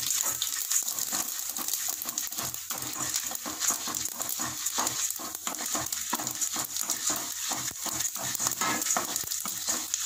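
Urad dal and mustard seeds sizzling and crackling in hot oil in a stainless steel kadai, the tempering stage, while a wooden spatula stirs and scrapes them across the pan.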